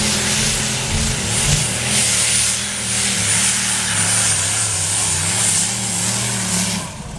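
Modified pulling-tractor engine running hard with a steady high whine over the engine note, the pitch wavering, then dropping away suddenly near the end.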